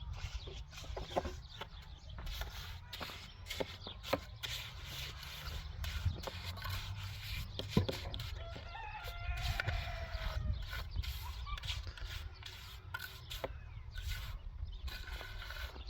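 A rooster crows once, about nine seconds in, over scattered knocks and taps.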